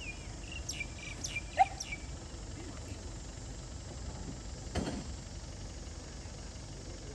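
A bird calling with a run of quick chirps that slide downward, plus one louder short note, in the first two seconds, over a steady outdoor background hiss. A brief sharp knock comes just before the five-second mark.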